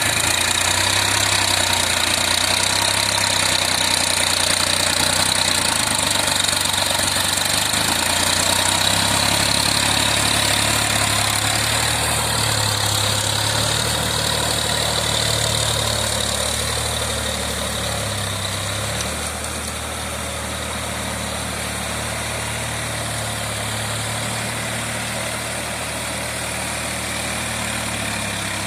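Massey Ferguson 7250 tractor's diesel engine running steadily with a rotavator, with a high whine above the engine note. It gets a little quieter about two-thirds of the way in.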